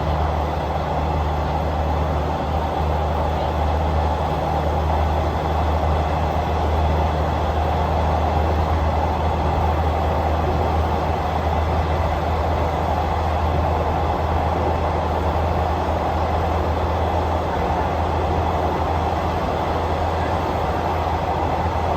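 A moving train running steadily on the rails, a constant low rumble with rolling noise on top.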